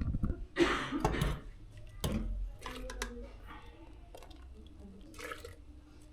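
Milk being poured into a pot of hot chocolate: a brief splashing pour near the start, followed by a few light knocks.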